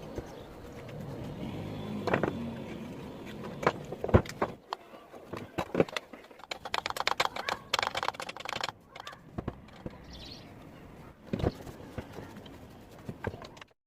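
Irregular sharp clicks and knocks of metal parts and tools being handled while working on an old sewing machine, with a quick run of rapid ticking about halfway through, over a low background hum.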